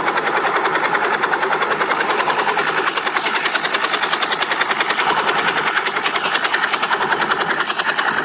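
Motor and rotor of a small remote-control flying craft, running at a steady speed with a fast, even chopping hum.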